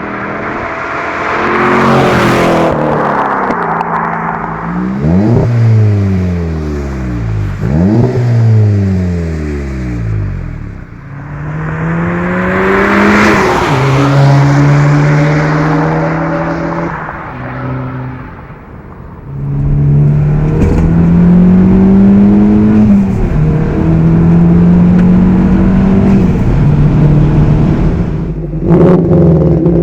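Subaru BRZ's flat-four engine being driven, its revs climbing and falling several times through gear changes. Later the revs are held fairly steady.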